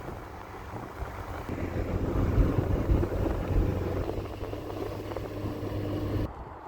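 A steady low engine hum under a rumbling, wind-like noise, cut off abruptly near the end.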